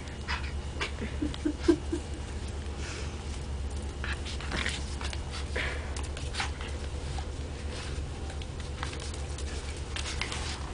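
Papillon puppy making a few short whimpering yips, a quick run of four about a second in, then scattered high whines and small clicks, over a steady low hum.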